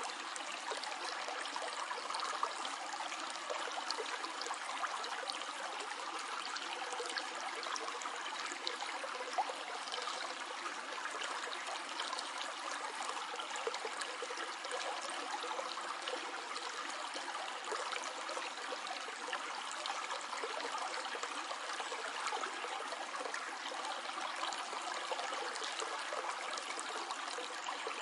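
A stream flowing over stones: a steady, even rush and babble of water that stays the same throughout, with many small splashes and trickles.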